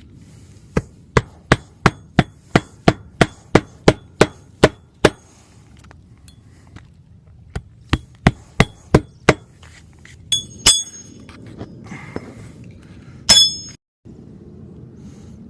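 Hammer driving nails into the roof: a quick run of about a dozen blows, about three a second, then after a short pause a second run of five. A few sharp metallic clinks follow near the end.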